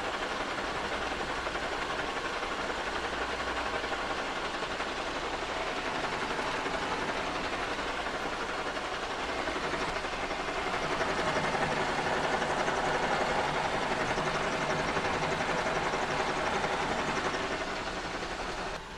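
Kearney & Trecker 2HL horizontal mill running, its two-flute end mill taking a 25-thousandths cut on a cast iron straight edge. The cutting noise grows louder a little past halfway and eases off near the end.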